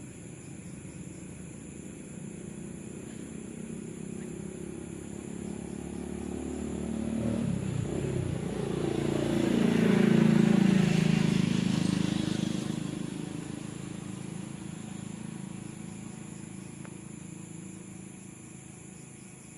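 A motor vehicle passes by: its engine grows steadily louder to a peak about ten seconds in, then fades away.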